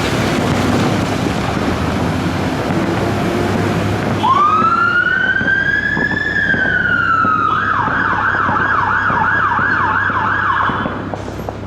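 Fire engine's siren starting about four seconds in: a rising wail that slowly sweeps down, then a fast warble of about three cycles a second, which cuts off near the end. Before the siren starts, the engine and road noise of the pulling-out vehicle are heard as a steady rumble.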